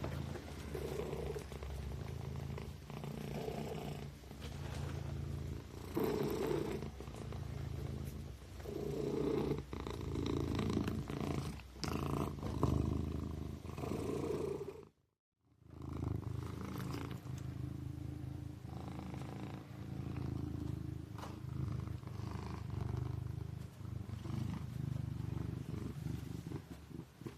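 Kitten purring continuously, a low rumble that swells and fades with each breath in and out. About halfway through, the sound cuts out completely for half a second and then resumes.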